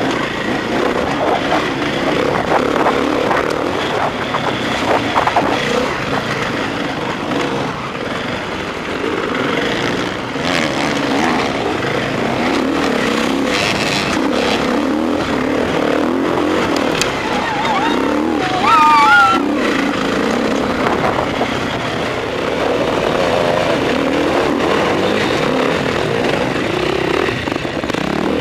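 Enduro dirt bike engine heard from the rider's helmet, revving up and down continuously as it rides a rough dirt track. A sharp, higher rev rises and falls about two-thirds of the way through, the loudest moment.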